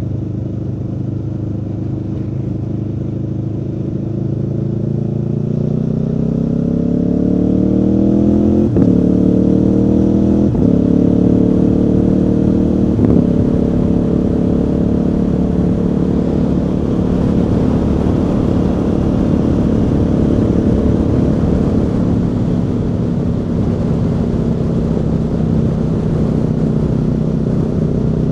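Aprilia Tuono V4's V4 engine pulling harder as the bike accelerates, then shifting up three times, its pitch dropping at each shift about two seconds apart. It then holds a steady pitch at cruising speed, with wind rush rising over it.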